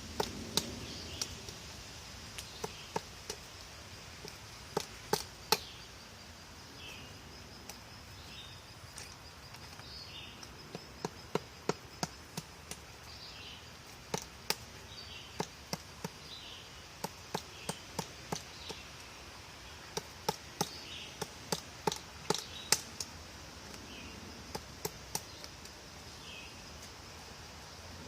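Woodpecker pecking at wood: sharp, irregular taps, sometimes single and sometimes in quick runs of two to four, with gaps of a second or more between runs.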